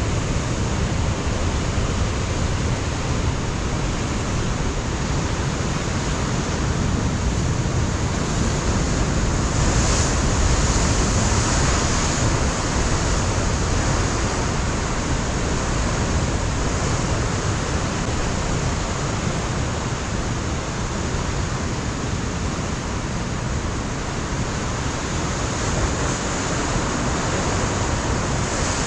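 Ocean surf breaking continuously against a rocky shoreline, with wind rumbling on the microphone. The surf swells about ten seconds in.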